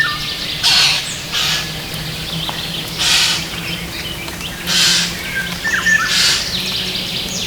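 Small birds chirping, broken by five short, harsh, hissing bursts that are the loudest sounds, with a faint steady low hum underneath.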